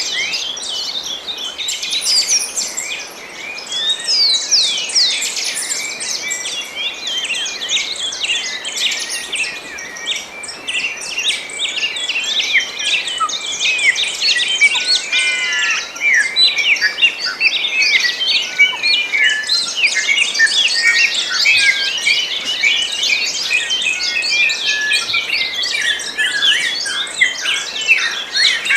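A dense dawn chorus of many small birds chirping and singing at once, with overlapping short rapid chirps and whistles.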